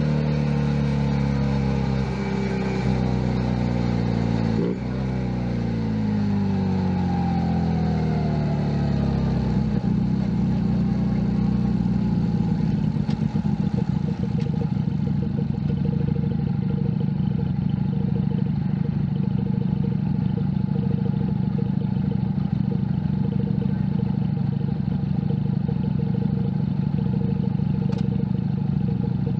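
Junak M11 Cafe's 125 cc single-cylinder engine running. About five seconds in there is a shift, then the engine note falls steadily as the bike slows. It settles into a steady, lower note for the second half.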